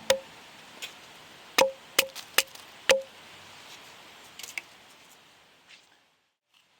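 Firewood being chopped: about five sharp wooden strikes in the first three seconds, irregularly spaced and each ringing briefly, then a few faint taps.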